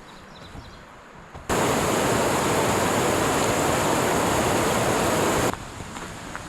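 Loud, steady rush of falling water that cuts in abruptly about a second and a half in and cuts off a second before the end. Quieter hiss lies either side of it.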